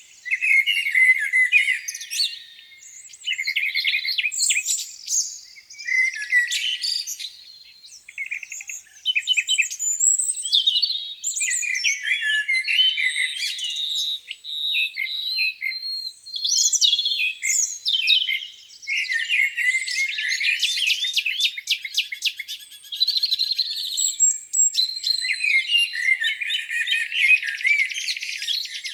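Several songbirds singing at once in a continuous spring chorus of overlapping chirps, rapid trills and whistled phrases.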